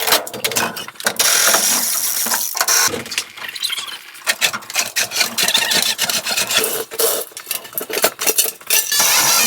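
Rapid mechanical clicking and rattling, like tools or metal equipment being handled, with many sharp knocks.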